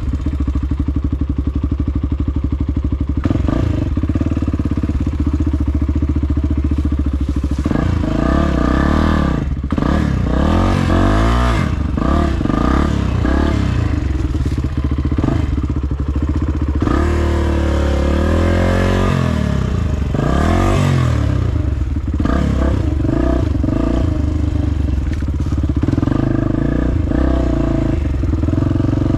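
Dirt bike engine running under a rider on a trail. It holds a fairly steady pitch at first, then from about eight seconds in it revs up and down again and again as the throttle is opened and closed.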